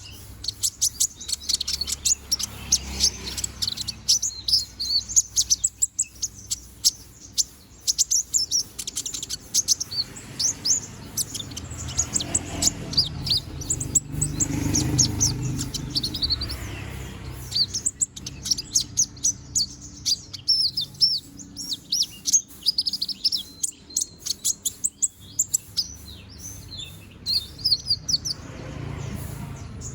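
Konin (kolibri ninja sunbird) singing: fast runs of short, high, thin chirps and twitters in bursts, with brief pauses between them.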